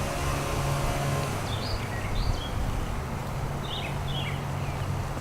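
Small birds chirping in short bursts, twice, over a steady low mechanical hum.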